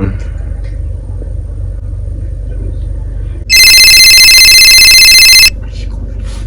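A mobile phone ringtone sounds loudly for about two seconds, a steady chord of high electronic tones, starting about three and a half seconds in, over a low steady hum.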